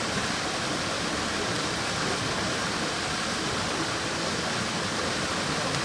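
Steady, even rushing noise like running water, unchanging in level.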